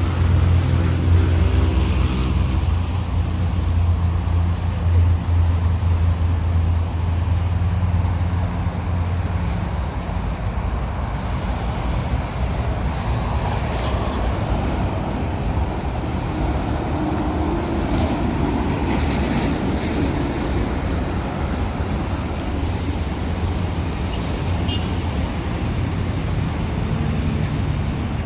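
A motor engine hums steadily and fades after about ten seconds, leaving a steady rushing noise.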